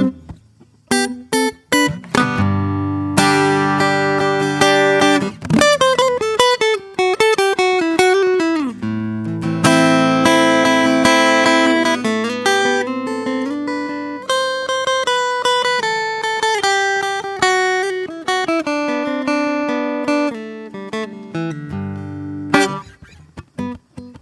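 Solo acoustic guitar playing slow improvised picked notes and chords, with some notes sliding down in pitch about eight seconds in.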